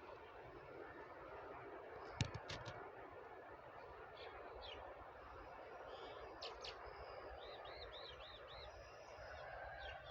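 Faint outdoor background noise with birds calling: scattered short calls and, about three-quarters of the way through, a quick run of about six repeated chirps. A single sharp click a couple of seconds in is the loudest sound.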